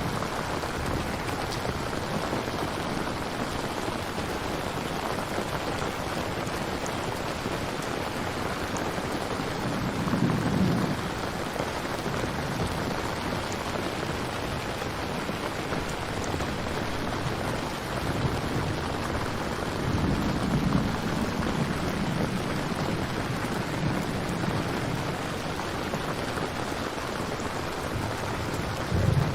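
Steady rain falling, with low rumbles of thunder swelling about ten seconds in, again around twenty seconds, and briefly near the end.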